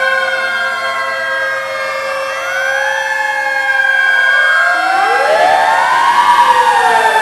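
Several fire truck sirens wailing at once, their overlapping pitches rising and falling. A deeper siren sweeps up about five seconds in and grows louder.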